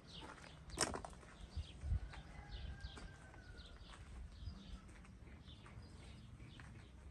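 Small birds chirping: short falling chirps, several a second, go on throughout, with a sharp click just under a second in and a few low thumps around two seconds in.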